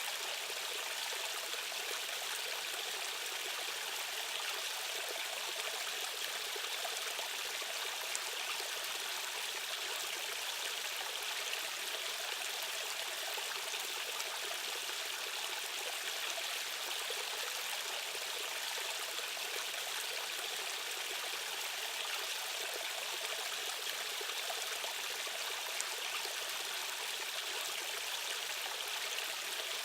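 Fast-flowing stream water rushing steadily and evenly, with little deep rumble.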